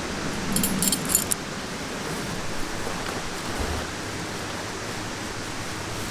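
Light metallic jangling and clinking in the first second or so, then a steady even hiss.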